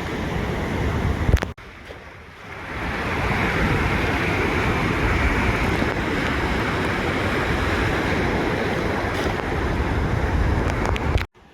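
Ocean surf washing onto a beach, a steady rushing with heavy low rumble and wind buffeting the microphone. The sound drops abruptly about a second and a half in, builds back up over the next second, and cuts out sharply again near the end.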